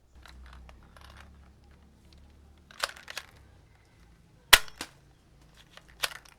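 Toy blaster gun firing: a handful of sharp shots, first a close pair, then the loudest shot with a lighter one just after it, and one more near the end. Faint handling noise comes before the first shots.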